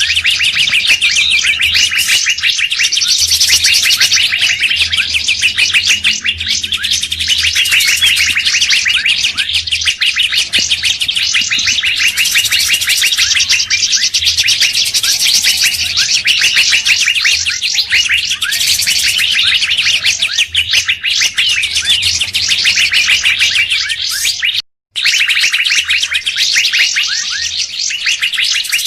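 Dense, unbroken chorus of rapid high songbird chirps and trills from a bird-lure recording mixing several species. About 25 s in, the sound cuts out completely for a fraction of a second, like an edit in the track, then resumes.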